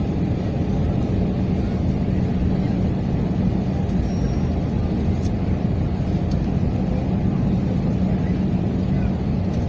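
Airbus A321 cabin noise in flight: a steady airflow and engine rush with a constant low hum.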